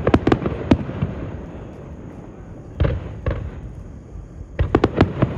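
Fireworks going off: three clusters of sharp bangs, with rumbling echoes between them, at the start, about three seconds in and near the end. They are likely display-grade aerial shells of about 3 to 4 inches.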